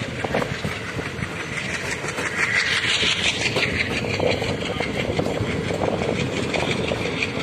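Passenger train coach rolling along the track, heard from its open door: a steady rumble and clatter of wheels on the rails with rushing air. A brighter hiss swells about two to three seconds in.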